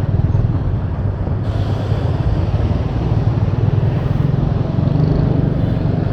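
Steady low rumble of a motor vehicle on the move, heard from on board.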